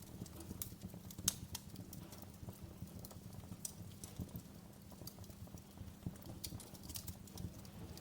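Wood fire crackling in a fireplace: irregular sharp pops and snaps over a low, steady rumble of burning, with the loudest pop about a second in.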